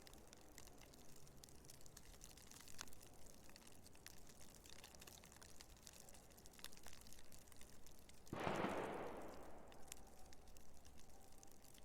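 Faint blizzard wind and blowing snow with scattered light ticks, and a sudden louder whoosh about eight seconds in that fades away over a second or two.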